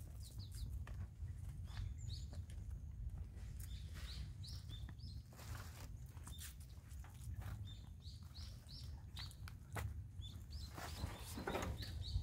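Small birds chirping in short repeated calls, with footsteps on a soil path and a low rumble of wind on the microphone.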